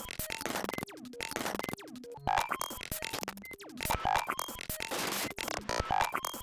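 Glitch sound-design sample playing back as electronic music: stuttering, chopped synth fragments with sudden cut-offs and short falling pitch sweeps, the sample's playback speed being changed.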